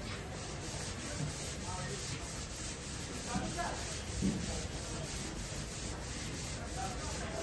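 Abrasive rubbing on a car body panel in quick repeated strokes, about four a second, typical of hand sanding during panel repair.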